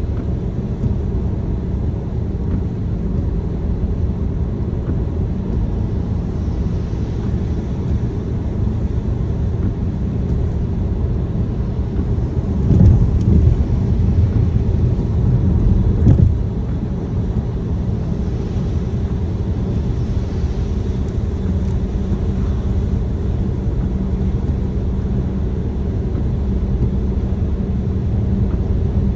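Steady low rumble of a car being driven, road and engine noise heard from inside the cabin, swelling louder for a few seconds just past the middle.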